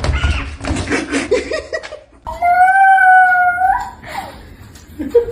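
A dog howling: one long, steady, held note about a second and a half long in the middle, with shorter broken calls before and after it.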